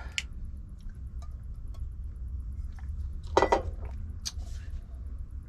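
Light clinks and taps of glass and dishes being handled, with a louder ringing clink about three and a half seconds in and another shortly after, over a steady low hum.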